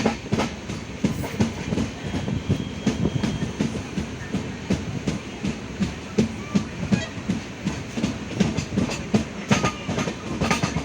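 Passenger train running along the track, heard from aboard: a steady rumble with the wheels clattering over rail joints in a quick, uneven clickety-clack.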